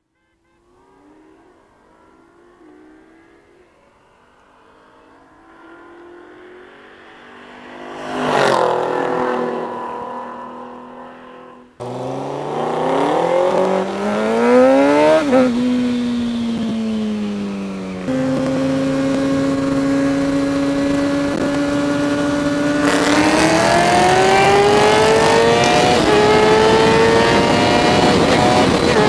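Racing cars, an Infiniti Q50 and a Foxbody Mustang, heard approaching from far off, growing louder and passing about eight seconds in with a drop in pitch. After a sudden cut, a sportbike accelerates through the gears from the rider's position, its engine pitch climbing and dropping at each shift, holding a steady cruise, then pulling again with wind rush.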